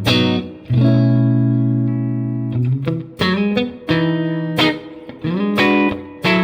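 Suhr Classic S electric guitar with three single-coil pickups playing chords. Each chord is struck and let ring, and one is held for nearly two seconds.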